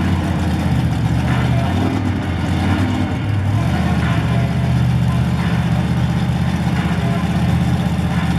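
Monster truck engine running at idle as a loud, steady low drone, its pitch shifting a little in the first few seconds and then holding.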